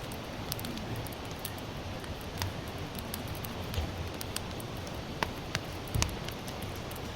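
Sawtooth oak (kunugi) firewood burning in a fire pit: a steady low hiss with sharp crackles and pops scattered through, the loudest about six seconds in.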